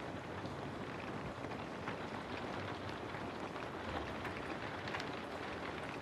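Steady rain falling, an even hiss with many small drips and patters of drops scattered through it.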